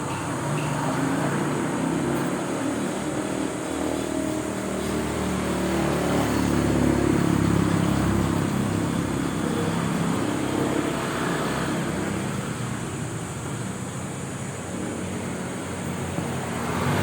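A motor vehicle engine running, growing louder to a peak about halfway through and then fading.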